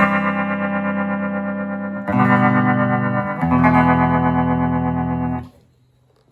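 Electric guitar chords through a circa-1965 Gibson GA-25RVT Hawk amp, its tremolo set near maximum speed so each sustained chord pulses rapidly. Three chords ring in turn, the last cut off about five and a half seconds in, leaving a faint amp hum.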